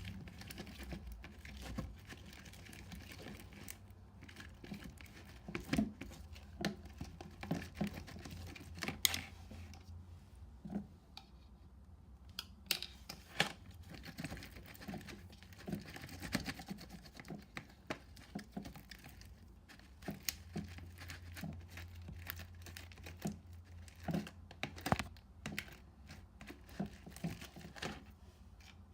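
Hands handling small items, likely slime-making supplies: irregular taps, clicks and crinkling, scattered all through, over a low steady hum.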